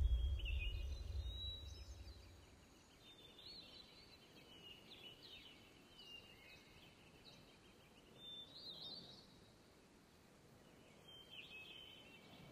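Music fading out over the first two seconds, leaving faint birdsong: short high chirps and whistles repeating throughout, a little louder about two-thirds of the way in.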